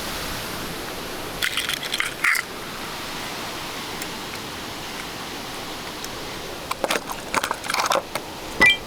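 Two short runs of small clicks and crunching, one about a second and a half in and one near seven seconds, over a steady hiss, with a brief high chirp near the end.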